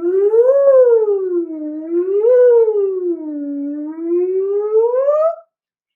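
A woman's voice sliding smoothly in pitch on one unbroken sustained sound, a vocal siren for a pitch-exploration warm-up: it rises, falls, rises again, dips to its lowest, then climbs to its highest note and stops about five and a half seconds in.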